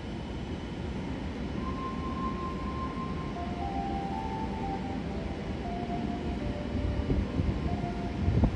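Steady low rumble of an E7-series Shinkansen train standing at the platform just before departure, with a faint short chime melody of a few notes stepping between pitches. Near the end the rumble builds and there is a sharp knock.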